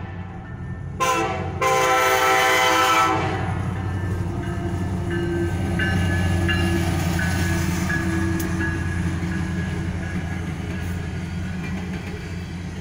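Diesel freight locomotive horn: a short blast about a second in, then a longer blast lasting about a second and a half. After that comes the steady low rumble of the locomotives and the coal train's cars rolling across the crossing.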